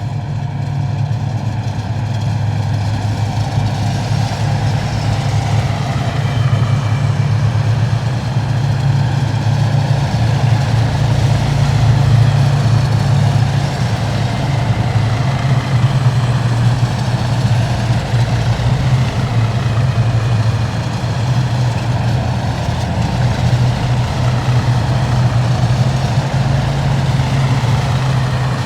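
Column of heavy military vehicles driving past, their engines making a loud, steady low hum that swells a little about halfway through.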